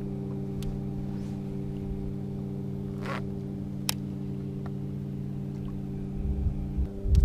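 A steady low hum made of several even tones, with a few faint clicks, a brief swish about three seconds in and some low knocks near the end.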